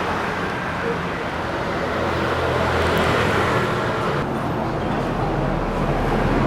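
Steady roadside traffic noise with a low engine hum underneath.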